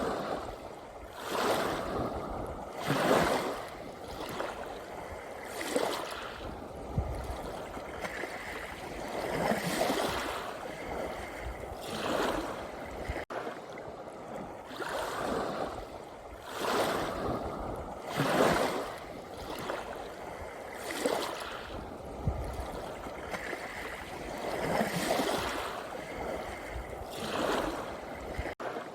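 Small sea waves washing in and breaking, each wash swelling and fading every two to three seconds.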